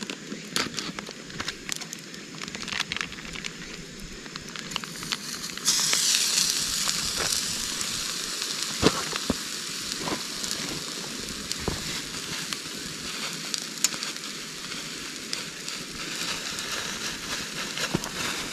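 Hamburg steak patties frying in a pan over a wood campfire: a loud, even sizzle starts suddenly about six seconds in and keeps going. Sharp crackles and pops from the burning wood run throughout.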